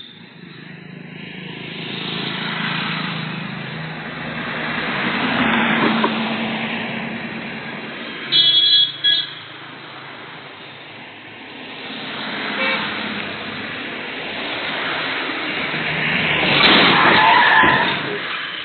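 Road traffic noise that swells and fades as vehicles pass, with a car horn sounding in two short blasts about eight seconds in.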